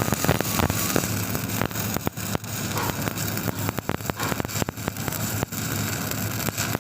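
Stick (shielded metal arc) welding arc crackling steadily, with frequent sharp pops over a low steady hum.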